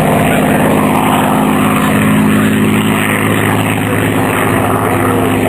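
Piston-engined propeller aircraft running steadily, a loud, continuous engine drone.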